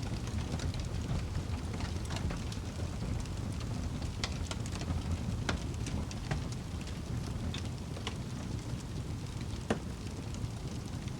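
Fireplace fire burning: a steady low rumble of flames with scattered sharp crackles, and one louder pop near the end.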